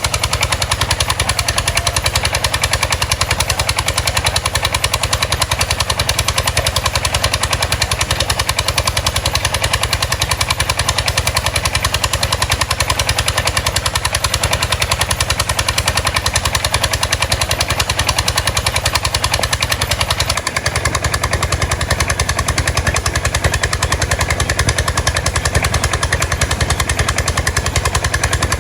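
A boat's engine running steadily with a fast, even knocking beat.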